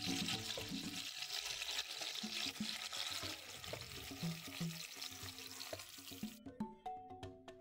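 Hot ghee with curry leaves sizzling in a pan as chopped onions are tipped in and stirred with a spatula. The sizzle cuts off suddenly about six seconds in, leaving soft background music.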